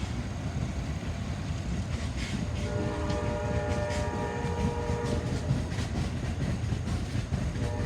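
Amtrak Empire Builder passenger cars rolling past with a steady rumble and wheel clicks over the rail joints. A chord of steady tones sets in about three seconds in and holds.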